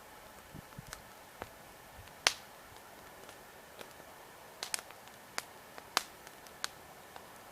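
Wood campfire crackling: irregular sharp pops and snaps from burning logs over a faint steady hiss, the loudest pop about two seconds in.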